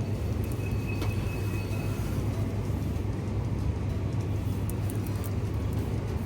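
A steady low rumble, with a brief high tone about a second in.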